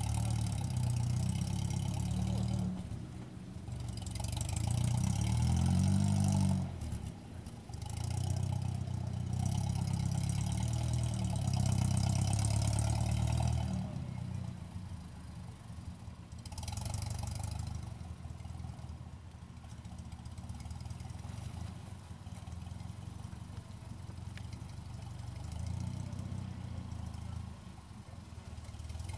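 UAZ off-road vehicle's engine revving hard in surges, dropping back briefly twice, then running quieter and steadier for the second half.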